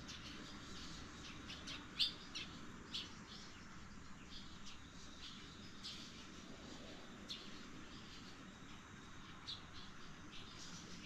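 Small birds chirping: short, scattered high chirps, the loudest about two seconds in, over faint steady outdoor background noise.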